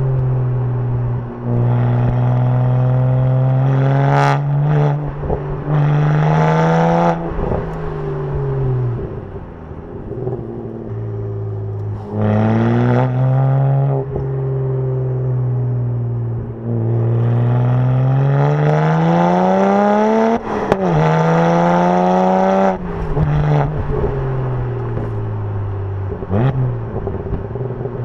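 BMW 1M's twin-turbo inline-six on a straight-piped, lightweight titanium-muffler exhaust, running through several pulls where the pitch climbs steadily and then falls off sharply. There is a sharp crack at some of the drops, most clearly about two thirds of the way in.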